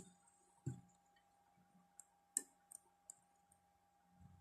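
Near silence broken by a soft knock and a few faint, sharp clicks, like small parts or wires being handled on a workbench.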